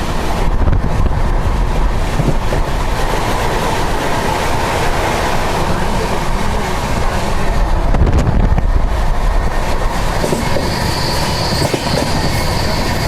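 Indian Railways train running on the track: a loud, steady rumble throughout, with a thin high whine joining in about ten seconds in.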